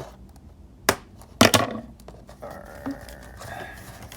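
Doll-box packaging being cut and pulled open: a sharp snap just before a second in and a louder cluster of snaps and cracks of plastic around a second and a half, then a stretch of rustling plastic and cardboard.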